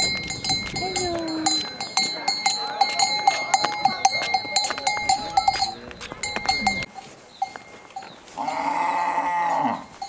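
A livestock bell clanking rapidly over and over, with its ringing fading out about six seconds in. Near the end a farm animal gives one long, wavering bleat.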